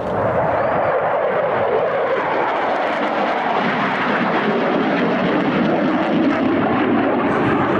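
Jet fighter flying by in a display, a loud rushing engine noise whose pitch slowly falls as it passes.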